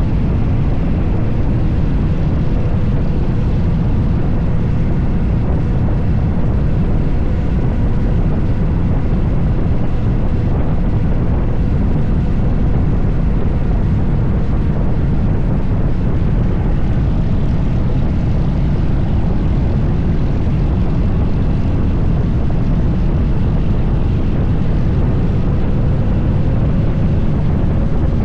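Harley-Davidson Fat Bob 114's Milwaukee-Eight 114 V-twin cruising at a steady speed, its exhaust drone mixed with rushing wind, with no revving or gear changes.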